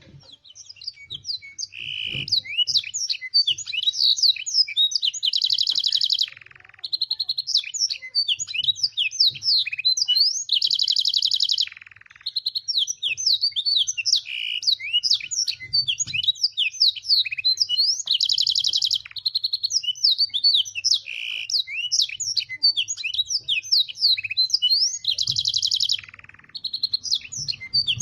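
Canary singing a fast, unbroken song of chirps and trills, filled with blackthroat and sanger phrases. A buzzy roll lasting about a second breaks in roughly every five to seven seconds.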